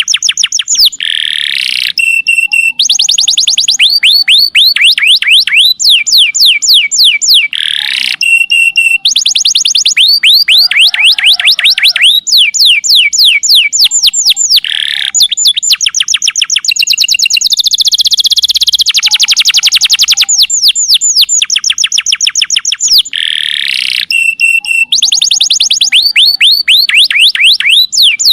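Domestic canary singing loud, continuous rolling song: long trills of quick high notes that each fall in pitch, broken by short buzzy rattles and held whistles, the phrases repeating over and over.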